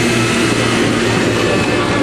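Engines running steadily and loudly: a bulldozer's engine and a car engine held at high revs by a throttle wedged open with wood, as the bulldozer crawls over the running car.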